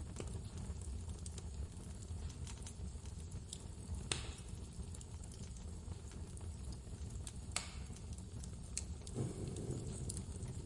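Wood fire crackling in a fireplace, with scattered small clicks and two louder pops, over a steady low rumble of blizzard wind.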